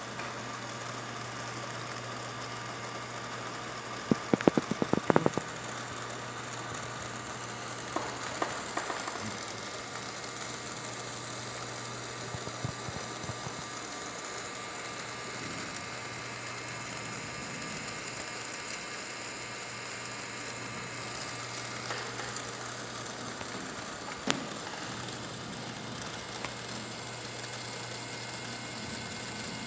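Small LEGO WeDo 2.0 electric motor running steadily with a low hum, as when it spins the model airplane's propeller. Short bursts of clicking and rattling come at about four to five seconds and again at about eight seconds, with a few single clicks later.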